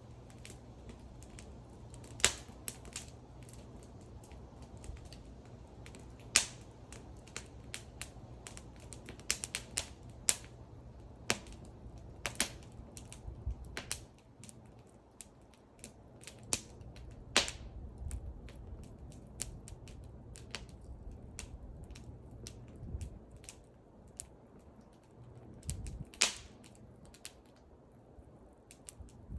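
Wood fire crackling and popping: irregular sharp snaps from the burning wood, a few louder pops among many small clicks, over a low steady rumble of the flames.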